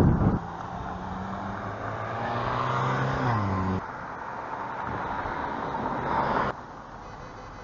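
Road traffic: a motor vehicle's engine hum with a hiss of tyres that drops in pitch as it passes, about three seconds in, followed by steadier traffic noise. The sound cuts off abruptly a few times.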